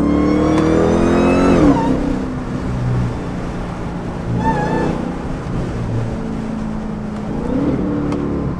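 Supercharged 6.2 L Hemi V8 of a Dodge Charger accelerating hard with supercharger whine. Its pitch climbs for about a second and a half, then drops sharply. The engine then runs steady, with a short rise and fall near the end.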